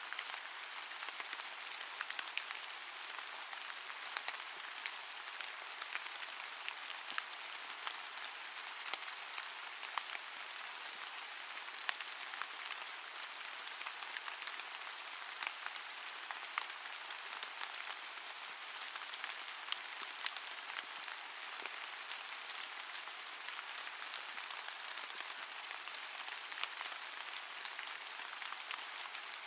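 Steady rain falling, an even hiss scattered with close, sharp drop ticks.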